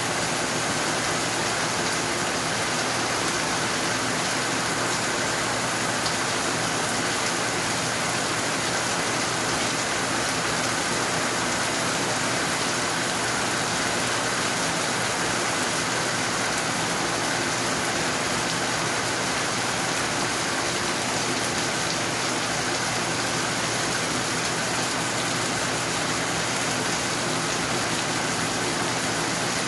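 Steady, heavy rain falling, an even hiss with no breaks or changes.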